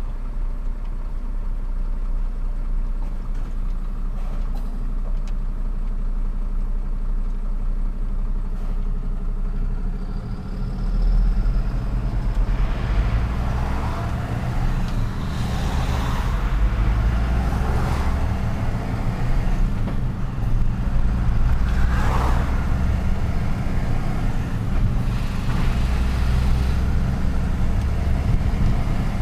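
Truck engine running while driving in city traffic, getting louder from about ten seconds in, with repeated swells of road and traffic noise.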